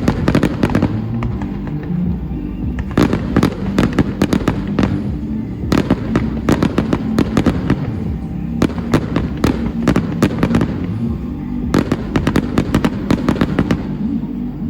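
Fireworks going off in rapid crackling volleys of sharp bangs, about five volleys a couple of seconds apart, over steady music.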